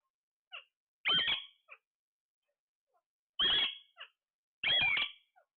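A pet parrot calling: three loud, short squawks, one about a second in and two more close together near the end, with a few soft chirps between.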